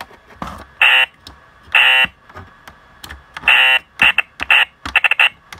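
Operation game's electronic buzzer going off as the metal tweezers touch the edge of a cavity: three buzzes about half a second each, then a run of short quick buzzes, with small clicks of the tweezers between.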